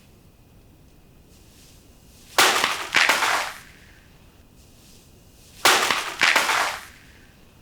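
Katana slashes, two pairs of them, about two and a half and five and a half seconds in. Each is a sudden whip-like crack that trails off over about half a second.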